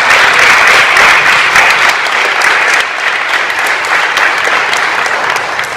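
Audience applauding, a dense spread of many hands clapping, strongest in the first half and easing a little toward the end.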